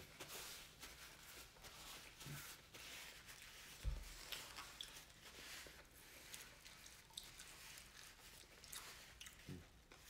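Faint close-up eating sounds: chewing of fried catfish nuggets and fries, with soft crackles as a paper napkin is rubbed between the hands. A single low thump comes about four seconds in.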